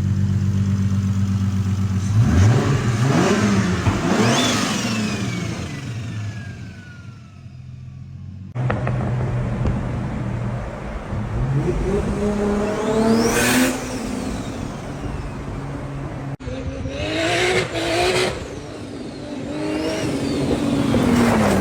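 Turbo-swapped Nissan Patrol engine idling, then blipped and revved several times. After each rev a high turbo whistle rises and then falls away slowly as the turbo spools down.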